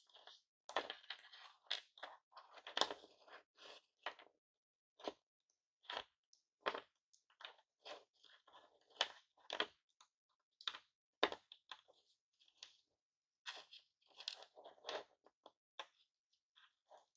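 Broken hard-candy lollipops crunching and cracking as they are smashed and handled: irregular sharp cracks and crunches with short clicks between them.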